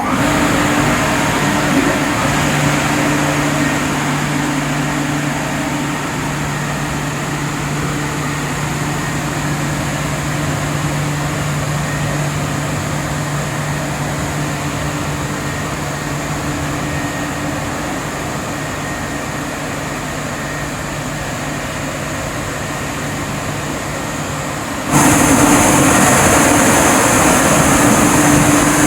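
Automatic touchless car wash machine running: a steady noise of high-pressure spray over a low motor hum. Near the end the hum stops and the machine switches to a louder, hissier stage.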